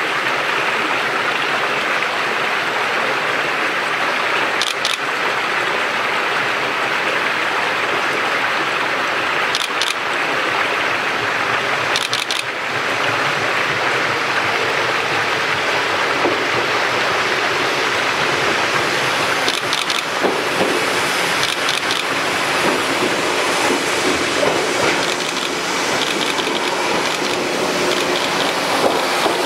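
Steady rushing hiss, with a few sharp clicks in the first half. In the second half a Shinano Railway 115 series electric train approaches and pulls in, its wheels ticking over the rail joints near the end.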